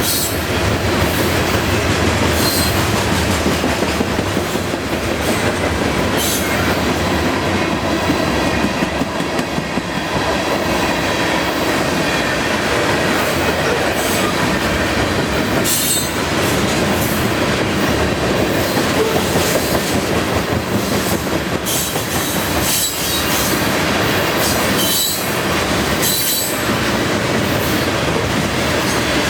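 Freight train cars rolling past at about 26 mph: a steady loud rumble with wheels knocking over rail joints at uneven intervals and, a few times, a brief high wheel squeal.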